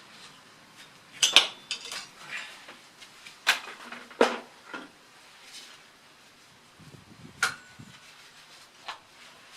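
Metal hand tools clinking and clattering against each other: a string of sharp metallic clinks, with the loudest about a second and a half in and a few more spread out after.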